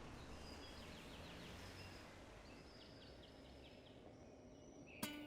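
Faint outdoor background noise with a few faint, high, short bird chirps. Strummed acoustic guitar music starts near the end.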